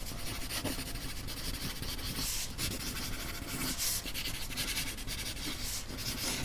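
Soft rubbing and scratching noise in short, irregular strokes.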